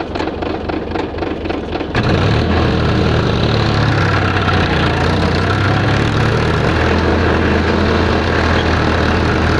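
Powertrac Euro 50 tractor's diesel engine running, with a quick even ticking for the first two seconds, then a sudden step up to a louder, steady engine sound that holds.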